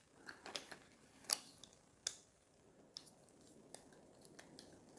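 Small plastic LEGO pieces handled and pressed together: a scatter of light clicks, the sharpest about a second in and again at two seconds.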